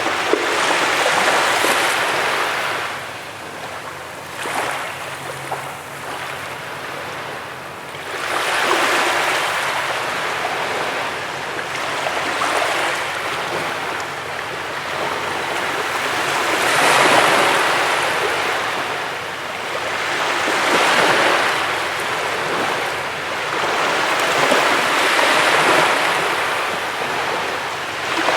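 Ocean surf breaking on a beach: a wash of noise that swells and falls away roughly every four seconds as each wave comes in and recedes.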